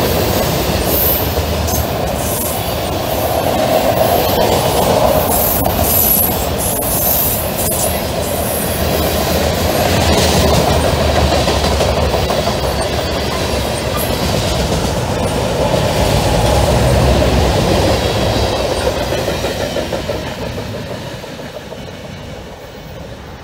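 Fast Norfolk Southern mixed freight train of tank cars and autorack cars rolling past at speed: a steady rumble of steel wheels on rail with clicking over the joints. It fades away over the last few seconds as the end of the train passes and recedes.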